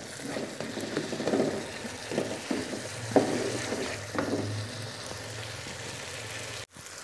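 Tomato masala sizzling in ghee in a wok while a spatula stirs and scrapes through it, with a few scraping strokes over a steady sizzle. The masala is at the stage where the ghee has separated from it. The sound cuts out briefly near the end.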